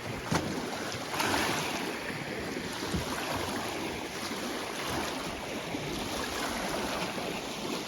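Strong wind blowing over a lake, with choppy waves washing in; a steady rush of noise with a couple of small knocks.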